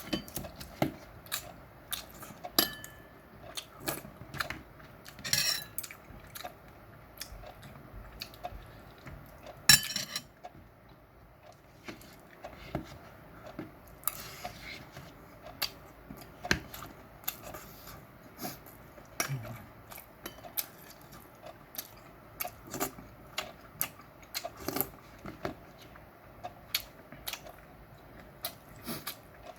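Close-up eating sounds: utensils clicking and clattering irregularly against dishes, with chewing of meat in between. One sharp, loud clack comes about ten seconds in.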